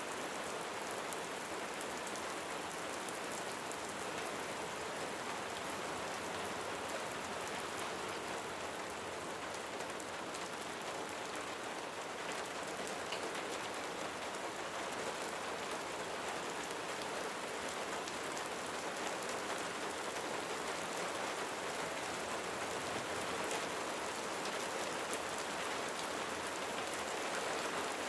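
Steady rain falling on a roof: an even hiss with scattered drop taps.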